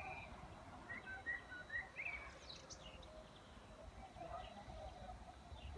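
Songbirds singing: a quick run of short chirps and whistled glides over the first two seconds, then a few higher, thinner notes. Underneath is a steady low outdoor rumble.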